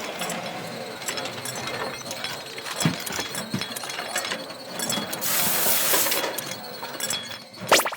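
Mechanic's workshop tool sounds: rapid ratchet-like clicking and metal clatter, with a louder burst of hiss about five seconds in.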